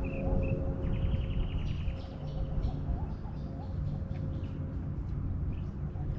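Birds calling: a run of quick high chirps, a short fast trill about a second in, and lower warbling notes, over a steady low rumble.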